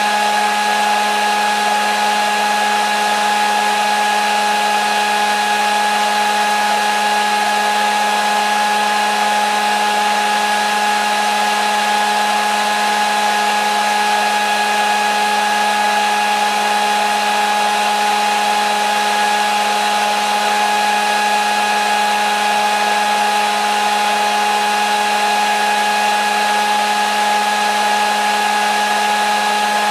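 Hair dryer running steadily, a motor hum with a high whine over a wide rush of air.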